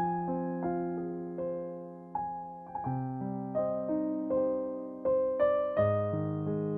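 Soft background piano music, slow notes and chords each struck and left to fade.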